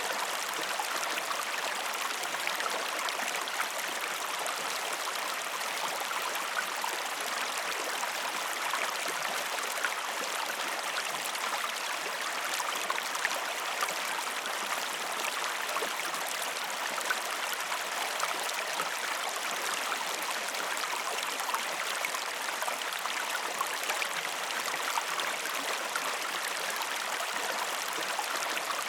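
Stream water flowing steadily, an even rushing haze flecked with small splashes.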